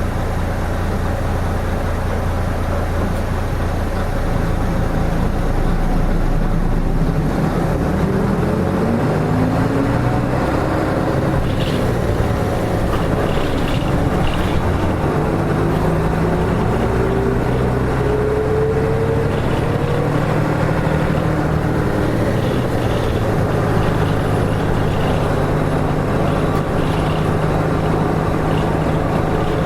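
Running sound of a Nissan Diesel KK-RM252GSN route bus, heard on board. The diesel engine hums steadily at first, then from about seven seconds in a whine rises in pitch for about twelve seconds as the bus gathers speed, before settling back to steady cruising.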